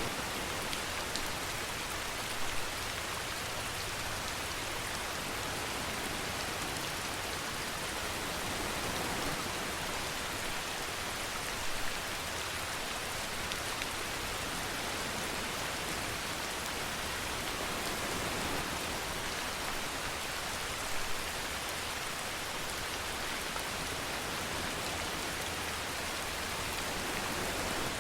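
Steady heavy rainfall, a continuous even hiss of drops on a surface, with a few louder drop impacts about 2.5, 12 and 21 seconds in.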